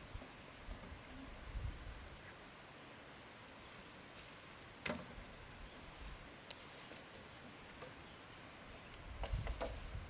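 Faint outdoor ambience of insects, a thin steady high drone, with short high chirps and a few sharp clicks and knocks, the clicks bunched near the end.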